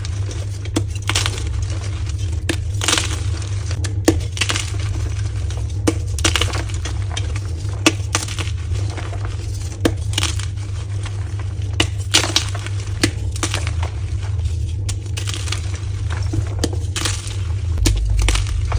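Soft gym chalk being crushed and crumbling, a run of irregular crisp crunches and crackles, over a steady low hum.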